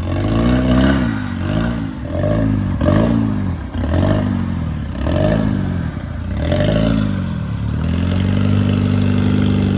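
A 1993 Toyota's off-road engine revving up and down about seven times, roughly once a second, as it works its way up a slick rock section, then holding a steady higher pitch near the end. Some clatter and scraping come through under the engine.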